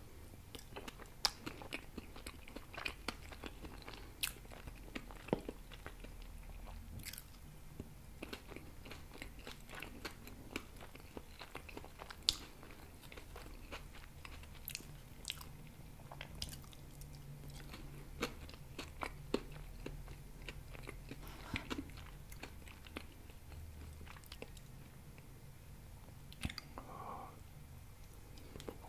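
Close-miked chewing and mouth sounds as forkfuls of grilled food are eaten: many sharp, wet clicks and smacks over a faint steady low hum.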